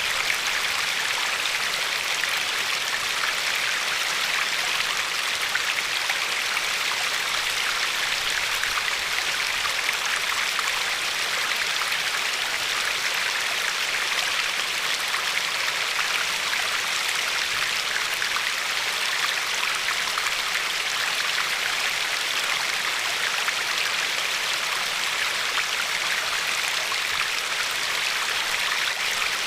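River water running and lapping over a pebbly shore, a steady even rush of flowing water.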